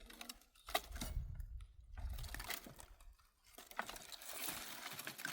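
Dry brush and twigs crunching and crackling, with a run of sharp snaps.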